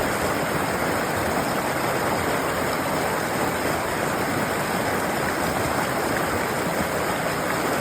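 Steady rushing of flowing water, an even noise with no pauses or changes.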